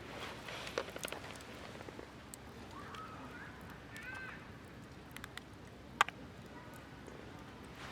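Wood campfire crackling faintly, with scattered sharp pops, the loudest about six seconds in.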